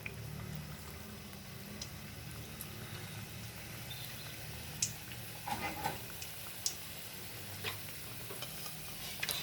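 Paneer and cheese rolls deep-frying in hot oil: a steady sizzle with scattered sharp crackles and pops, more frequent in the second half.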